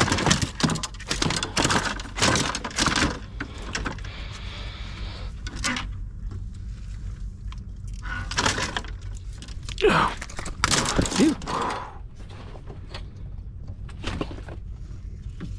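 A small fish thrashing while held and unhooked in a boat: irregular knocks, thumps and rattles in clusters, heaviest in the first three seconds and again about eight to eleven seconds in.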